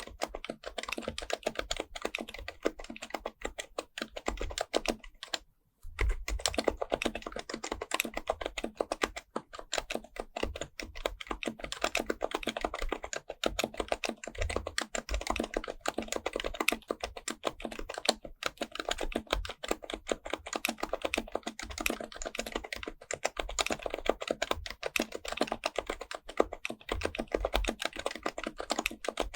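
Steady, fast typing on an HHKB Pro Type-S keyboard with its silenced Topre electrostatic-capacitive switches: a dense run of soft keystroke clicks, with one brief pause about five and a half seconds in.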